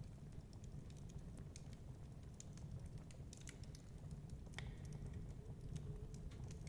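Wood fire crackling in a fireplace: irregular small snaps and pops over a low steady rumble, with one sharper pop a little past halfway.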